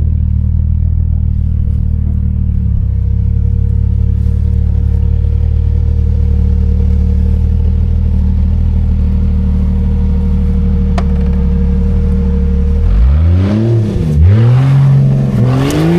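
Off-road 4x4's engine running steadily at low revs. About thirteen seconds in it is revved hard several times, the pitch rising and falling with each blip.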